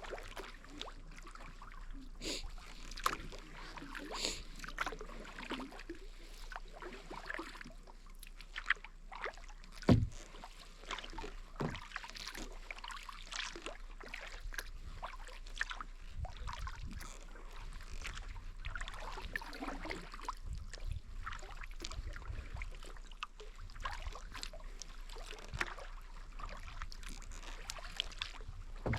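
Kayak paddling on calm water: paddle strokes splashing and dripping, with scattered small clicks and knocks and a louder thump about ten seconds in.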